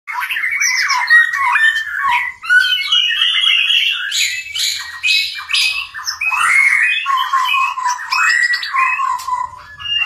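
A caged songbird singing a loud, varied run of whistled, gliding phrases, broken by a few rasping notes around the middle.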